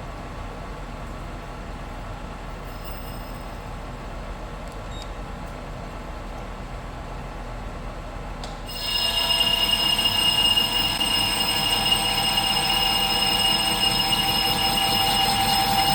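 Metal lathe turning the outside diameter of a steel plate: the machine runs steadily, then about nine seconds in the carbide insert bites and a loud, steady, high-pitched squeal of the cut begins and holds. The outside diameter has a hard spot that is chewing up inserts.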